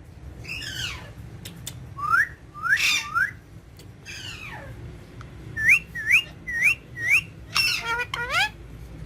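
Green ringneck parakeet making short whistled calls: a few falling calls, then a run of three quick rising whistles and later a run of four, with a louder burst of chatter near the end.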